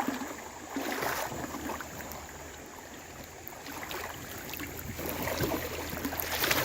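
Creek water sloshing and splashing as a person moves through it, in several uneven surges (a pair about a second in, more from about four seconds on, loudest near the end), over the steady rush of the flowing stream.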